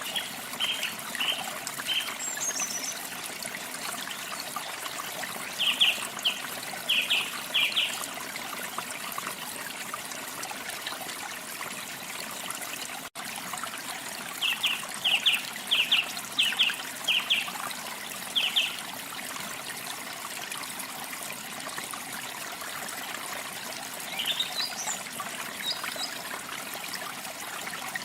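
Water trickling steadily, with birds chirping over it: runs of short, sharp repeated notes near the start, around six seconds in and again from about fourteen to nineteen seconds, then quicker rising calls near the end.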